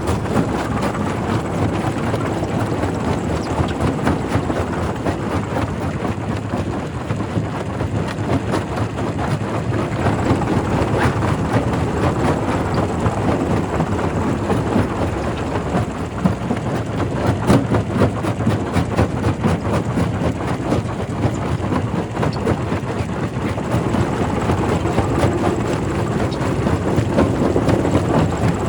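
Quarry primary rock crusher running, with a continuous clatter of rapid knocks and cracks as stone is crushed, over a steady low machine noise.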